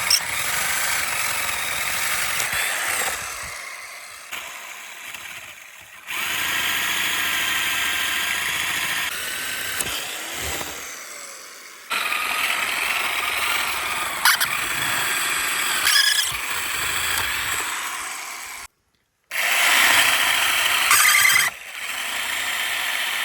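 Homemade electric woodworking machine running, in a string of segments whose sound changes abruptly from one to the next, with a few sharp knocks and a brief dropout about three-quarters of the way through.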